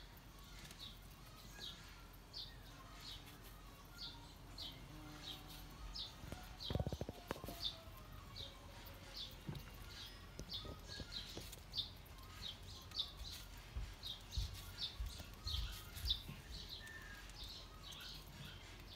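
A small bird repeating a short high chirp over and over, about once or twice a second, with a soft low bump about seven seconds in.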